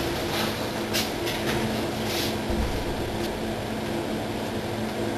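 Steady hiss and low electrical hum of a shop surveillance camera's audio, with a few faint knocks or clicks in the first couple of seconds.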